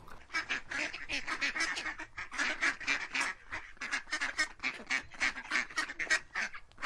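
Ducks quacking in a rapid, chattering run of short calls, several a second.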